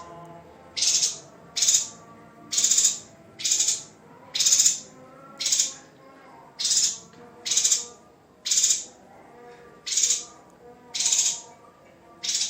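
Yuhina giving short, high calls over and over, a little more than one a second. Faint steady music plays underneath.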